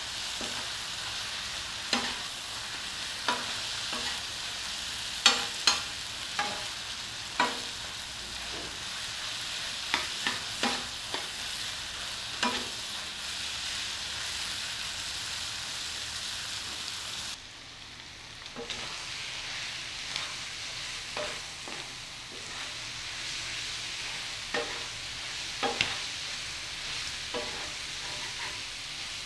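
Cubed boiled liver frying in oil on a flat tawa griddle: a steady sizzle, with a spatula scraping and clicking against the griddle at irregular intervals as the pieces are stirred. The sizzle dips briefly a little past the middle.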